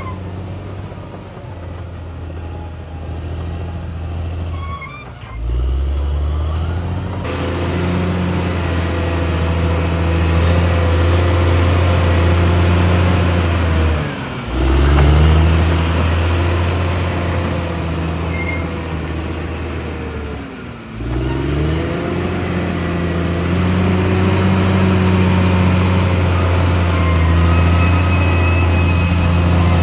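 Bulldozer's diesel engine running hard under load. Three times it dips sharply in pitch and loudness for about a second, then picks back up: a few seconds in, about halfway, and about two-thirds of the way through.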